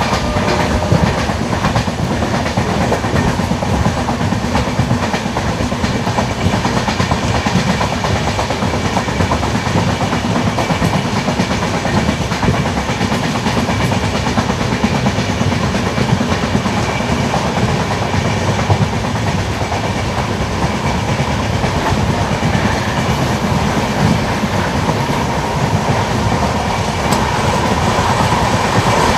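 Express train coaches running at speed, heard at an open coach door: a steady, loud rumble of wheels on the rails with clickety-clack over the rail joints.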